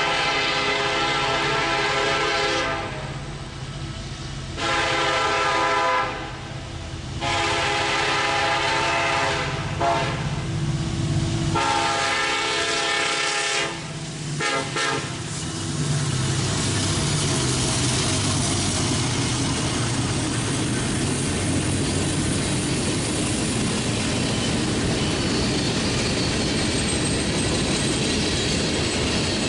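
Freight train's diesel locomotive horn sounding a series of blasts, some long and some short, over the first fifteen seconds. Then the locomotive's engine and the steady rumble and clatter of freight cars rolling past close by.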